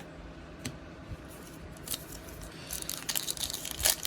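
Plastic trading card pack wrapper being handled, with a few light clicks, then crinkling and tearing as it is opened, starting about two and a half seconds in.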